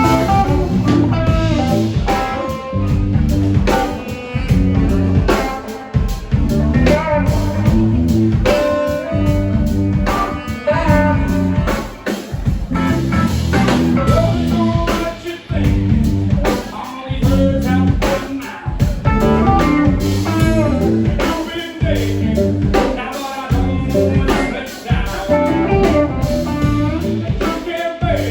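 Live blues-rock band playing: electric guitar over bass and a drum kit with a steady beat.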